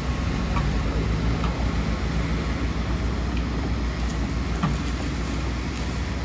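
Heavy excavator's diesel engine running steadily with a low drone, with a few faint short clicks over the top.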